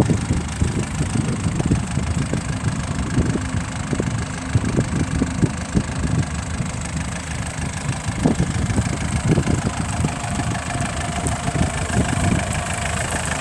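An engine running steadily, with irregular sharp knocks through it.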